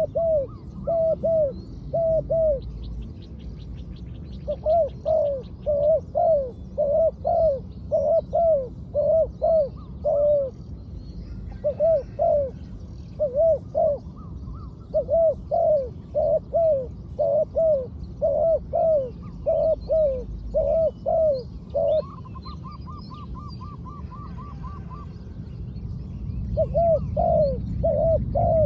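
Spotted dove cooing in long runs of short, arched notes, with breaks about three seconds in, around eleven and fourteen seconds, and from about twenty-two to twenty-six seconds. During that last break a different bird gives a quick series of higher notes, and a steady low rumble runs underneath.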